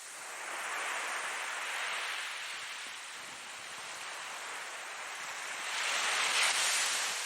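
Ocean waves breaking and washing in: a steady hiss of surf that swells about a second in and again, louder, near the end.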